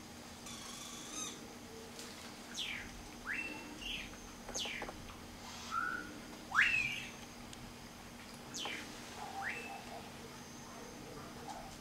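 A bird calling in a series of sharp whistled notes, about six in all, some sweeping steeply down in pitch and others quickly up, the loudest a rising note a little past the middle.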